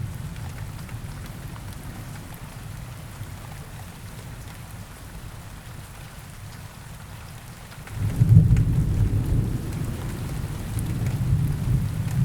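Steady rain falling on forest foliage, with a deep rumble of thunder that rolls in suddenly about eight seconds in and keeps going.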